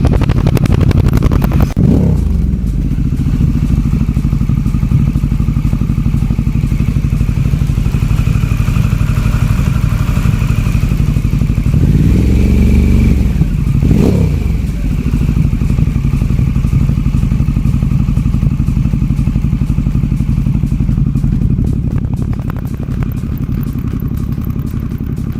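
Harley-Davidson Pan America 1250's V-twin engine running loud through a Pazoma aftermarket exhaust, mostly idling. A revved engine drops back about two seconds in, and it is revved up again around twelve seconds in, falling back to idle about two seconds later.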